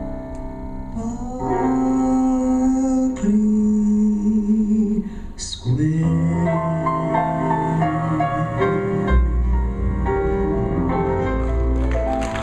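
Big band playing the closing instrumental bars of a slow swing ballad: held horn chords over piano that change every second or two.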